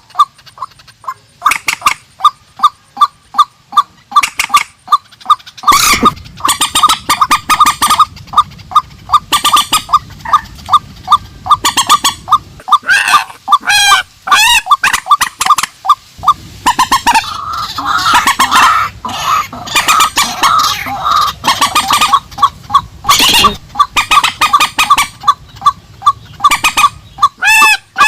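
Recorded calls of purple swamphens and white-breasted waterhens: a fast run of short, repeated clucking notes, broken by loud, harsh calls that rise and fall in pitch.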